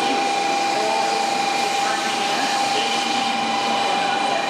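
Shinkansen 700 Series Rail Star train sliding past along the platform as it pulls in: a steady rushing of air and wheels, with a faint steady tone held over it.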